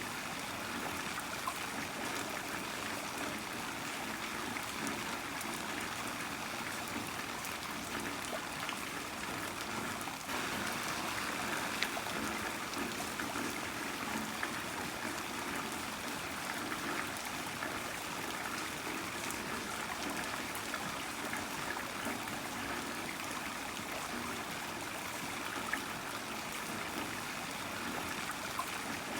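Heavy rain falling steadily, an even rushing hiss with scattered sharp drop ticks.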